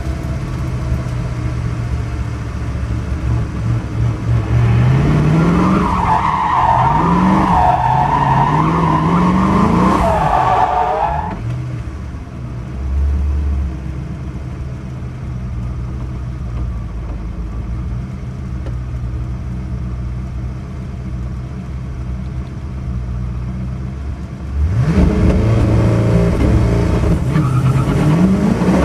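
Koenigsegg One:1's twin-turbo V8 heard from inside the cockpit at low speed, its revs rising and falling. From about five to eleven seconds in there is a high wavering tyre squeal. After that the engine runs steadily, and near the end the revs climb hard as the car accelerates.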